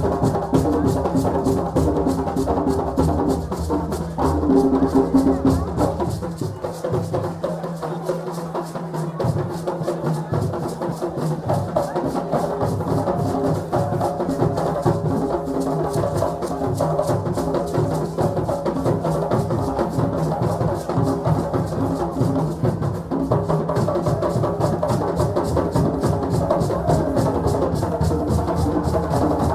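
West African celebration drumming: drums beating a fast, dense dance rhythm under other music. The deep bass drum drops out for a few seconds about a quarter of the way in, then comes back.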